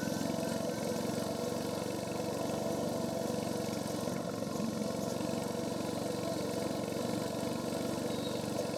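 Royal Enfield Hunter 350's single-cylinder engine running steadily through its stock exhaust while the bike is ridden, with an even thud of firing pulses and no change in revs.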